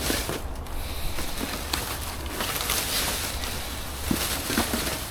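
Rubbish being handled and rummaged through: a steady rustling noise with a few light knocks.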